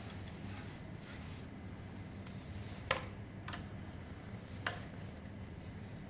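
Three sharp clicks from a tool working on the electric scooter's brake as the bolts are tightened, about three seconds in, again half a second later, and once more a second after that, over a steady low hum.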